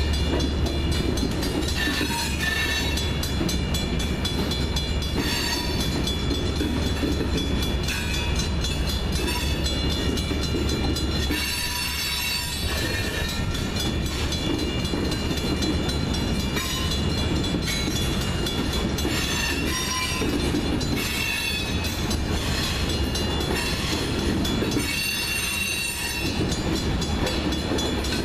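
Freight train of tank cars rolling past over a grade crossing: a steady deep rumble of steel wheels on the rails, with rail-joint clicks and high-pitched wheel squeal that comes and goes.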